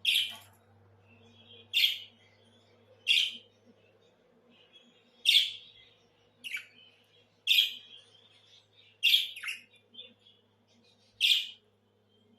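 Budgerigar giving short, sharp, loud chirps, about nine of them at uneven gaps of one to two seconds. A faint steady low hum lies under them.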